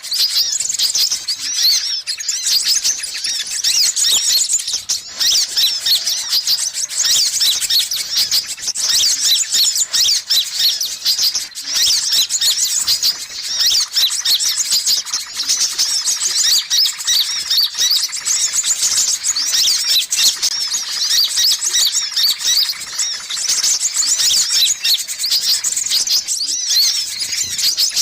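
Sunbirds chirping and twittering nonstop, a dense, quick-fire stream of high, thin notes: a noisy calling recording of the kind used as a lure to draw in wild sunbirds.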